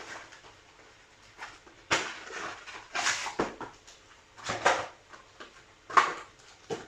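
Trading-card packaging and cards being handled: short rustling, crinkling bursts about once a second, from foil booster packs and cards being opened and sorted by hand.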